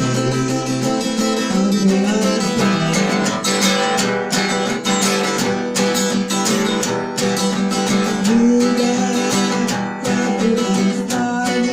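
Acoustic guitar strumming a steady rhythm in an instrumental passage of a song, over long held backing tones.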